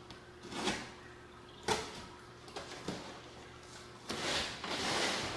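Handling noises while a large RC jet model and its packaging are unpacked: a soft scrape, a sharp knock, two lighter knocks, then a longer rustling slide near the end.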